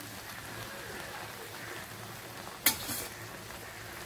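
Chopped okra frying in oil in a pan, a steady sizzle. About two-thirds of the way through, a spoon gives a sharp clink against the pan, followed by a lighter one.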